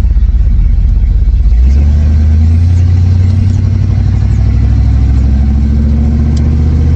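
Car engine running loudly: a rough, pulsing low rumble that changes suddenly, about a second and a half in, to a steady even drone as the engine settles into a constant speed.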